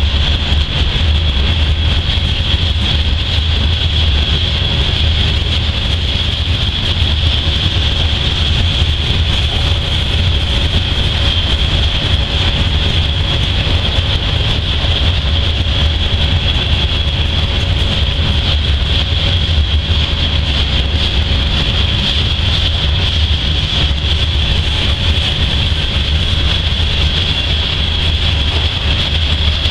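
Freight train's covered hopper cars rolling past, steel wheels on rail making a steady, continuous rumble, with a steady high-pitched whine over it.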